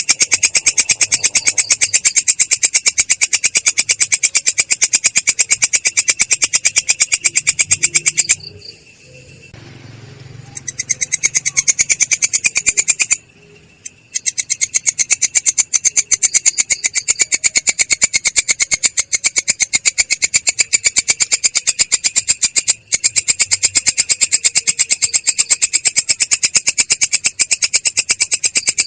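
Singing insect's fast, even pulsing trill, high-pitched and steady, cut by two short gaps about eight and thirteen seconds in.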